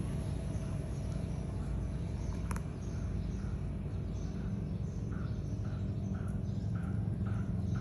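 Caterpillar 3412 V12 marine diesel engine running steadily with a deep, even rumble. A sharp click comes about two and a half seconds in, and faint high chirps repeat about twice a second through the second half.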